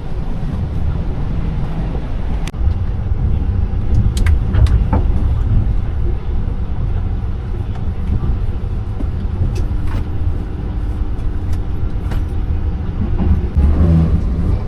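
Passenger train running, heard from inside the carriage: a loud, steady low rumble with a few sharp clicks scattered through it and a faint steady hum for a few seconds near the end.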